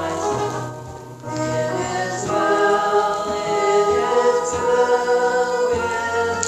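Church music during the offering: a choir singing with sustained accompaniment, with a short dip in loudness about a second in.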